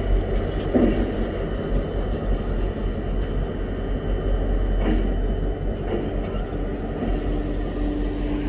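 Escanaba & Lake Superior freight train rolling, a steady low rumble with a few brief knocks.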